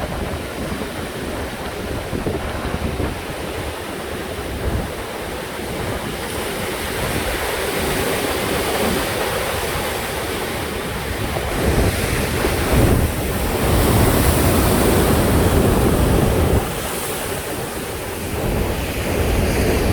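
Heavy surf stirred up by a typhoon, waves crashing and rushing on the shore, with wind buffeting the microphone. The roar swells louder about two-thirds of the way through, then falls back sharply near the end.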